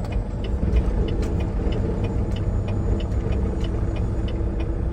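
Semi truck's diesel engine running steadily at low speed, heard from the cab, with a light regular ticking about three times a second.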